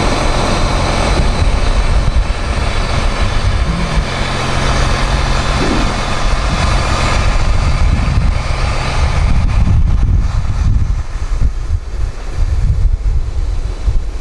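Diesel truck engine idling with a steady low hum, left running to power the truck's tailgate lift, which the speaker believes is a diesel.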